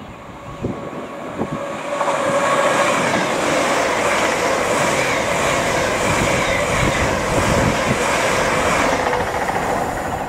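LNER Azuma (Hitachi Class 800/801 multiple unit) passing through the station at speed. About two seconds in, a few knocks give way to a loud, steady rush of wheels on rail, with a quick regular clatter as the carriages go by. The sound cuts off suddenly at the end.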